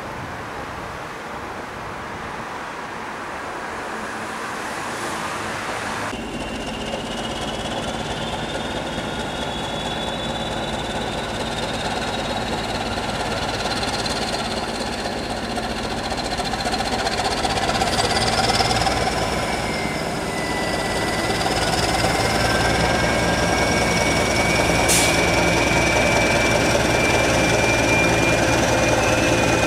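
A train running and growing steadily louder, with a low engine hum that comes in suddenly about six seconds in and a high whine that slowly rises in pitch.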